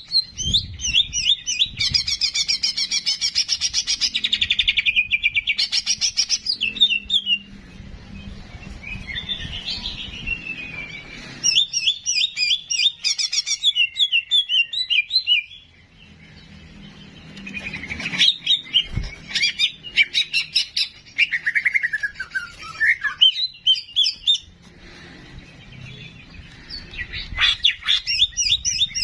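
Cucak jenggot (grey-cheeked bulbul) singing: loud, varied phrases of fast chattering trills and whistled notes, some sliding down in pitch, with short pauses between phrases.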